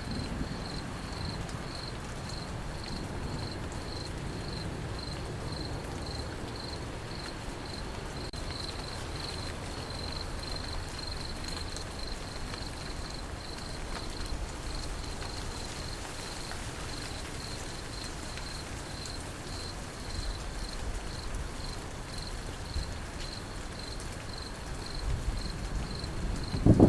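Crickets chirping in a steady, even pulse over a continuous hiss of rain. A low rumble of thunder starts to build near the end.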